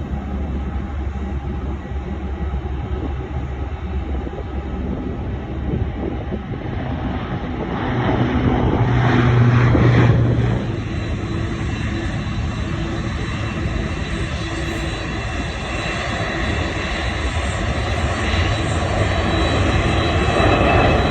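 Jet airliner engines running loud, swelling louder about eight to ten seconds in, easing off, then building again near the end.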